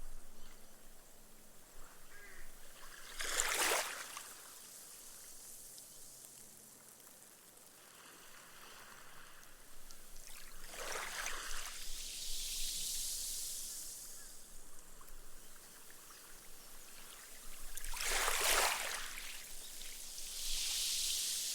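Small, gentle waves lapping onto a sandy beach, three in all, several seconds apart. After each wash comes a soft high fizzing hiss as the foam bursts and the water soaks away into the sand.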